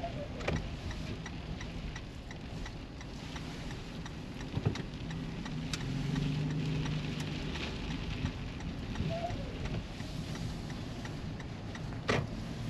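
Steady car road and engine noise heard from inside the cabin, with mixed rain and snow (sleet) hitting the windshield and roof as many small ticks, and a few sharper knocks.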